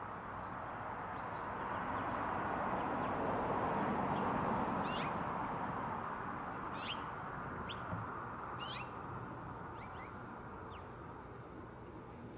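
A small bird chirping several short, quick calls over a soft rushing background noise that swells over the first few seconds and then slowly fades.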